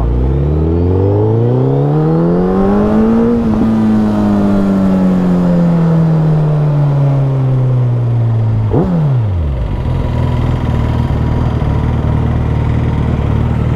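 Suzuki Hayabusa's inline-four engine pulling away: the revs climb for about three seconds, then ease down slowly, drop sharply about nine seconds in, and settle to a steady low running.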